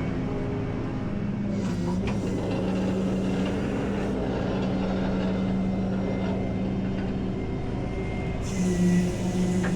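Truck engine running steadily, with a held hum whose pitch steps up and briefly gets louder near the end.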